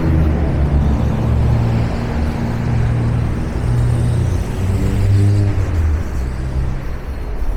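Street traffic: the engines of passing motor vehicles running and changing pitch as they go by, over a steady road hum.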